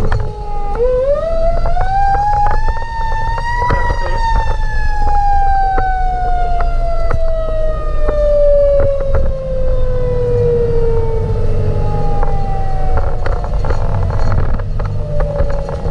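Fire engine siren winding up steeply about a second in, then winding slowly down over the next eight seconds, with the truck's engine and road rumble underneath.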